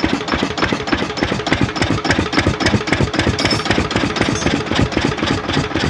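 Lister-type single-cylinder diesel engine running steadily at idle, with an even, rapid beat of firing strokes.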